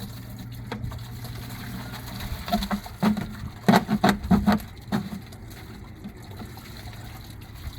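White vinegar pouring from a gallon jug into a plastic bucket, with a run of loud glugs from about three to five seconds in.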